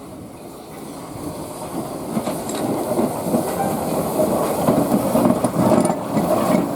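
Steam locomotive No 25 Northiam moving slowly along the track as it runs round its train, growing steadily louder as it draws near.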